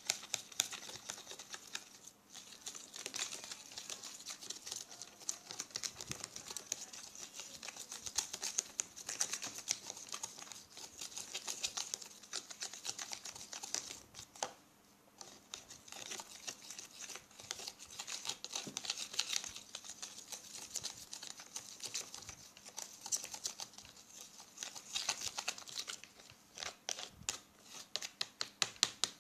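A shampoo and salt mixture being stirred in a small container with a utensil: rapid, irregular clicking and scraping, with short pauses about 2, 15 and 26 seconds in.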